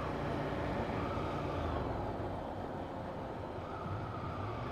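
Ducati 797 motorcycle's air-cooled L-twin engine running steadily while riding at low city speed.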